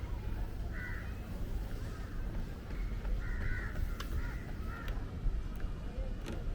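Crows cawing: a few short, harsh calls about a second in and again around three to four seconds in, over a steady low rumble.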